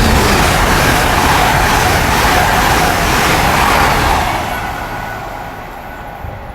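GWR Class 800 IET passing through the station at speed: a loud rush of wheel and air noise that stays at its peak for about four seconds, then fades as the train draws away.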